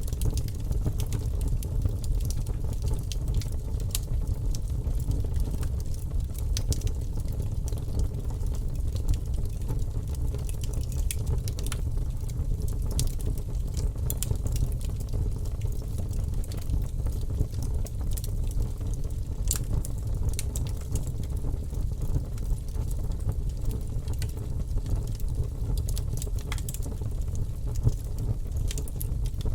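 Wood fire burning, with scattered, irregular crackles and pops of the burning wood over a steady low rumble.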